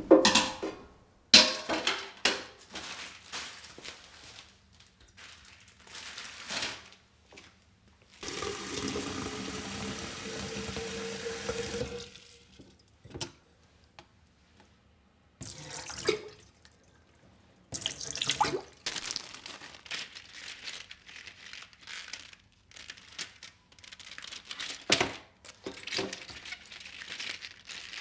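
Kitchen tap running into the sink for about four seconds in the middle, the pitch rising as a container fills under it. Around it come scattered clinks and knocks of things being handled and set down at the sink.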